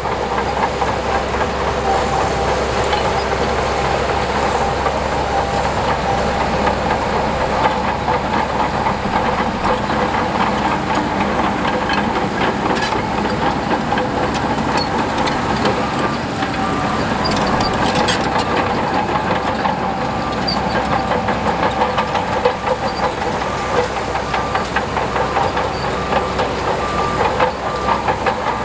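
Heavy diesel earthmoving machinery working: a steady engine drone with a whine and a continual rattle of metal clicks.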